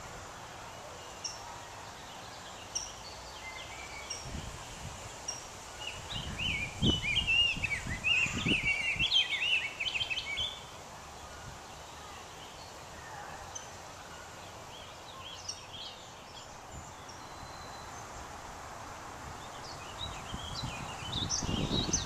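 Birds chirping over a steady outdoor hiss, with a dense burst of song from about six to ten seconds in and more chirps near the end. A few brief low rumbles come through.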